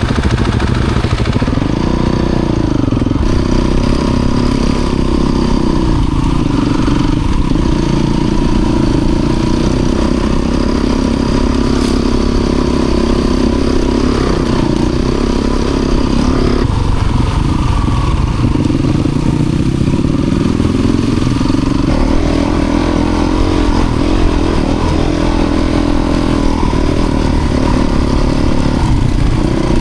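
Off-road motorcycle engine running as the bike is ridden, its pitch rising and falling with the throttle several times.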